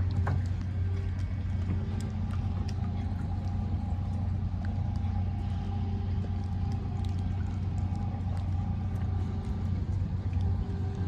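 An engine running steadily with an even low rumble and a faint steady hum above it, with scattered small ticks.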